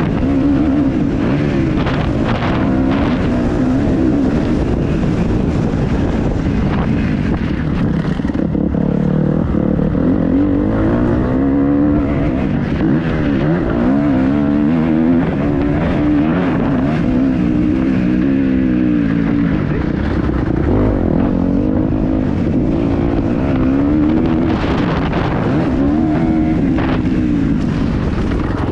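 Kawasaki KX250F four-stroke single-cylinder motocross engine being ridden hard, its pitch rising and falling again and again as the throttle opens and shuts through the gears.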